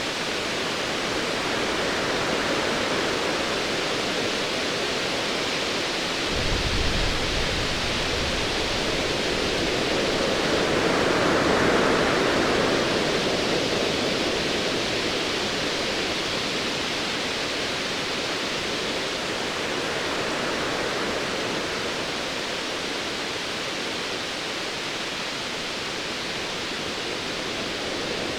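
Ocean waves rushing steadily, with one swell building and easing about halfway through. A low rumble of distant thunder comes in about six seconds in.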